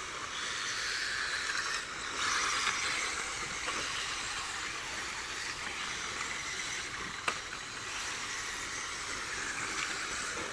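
1/10-scale front-wheel-drive RC rally cars running on a dirt rallycross track: a steady hissing rush of small motors and tyres on loose dirt, louder for a moment about two seconds in, with a single sharp click about seven seconds in.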